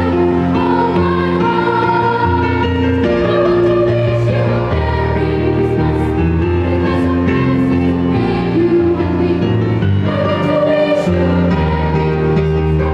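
Children's choir singing a Christmas carol in long held notes over a steady bass accompaniment.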